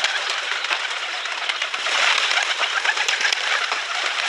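Pigeons cooing, many at once, over a steady, dense bed of rustling with many small clicks.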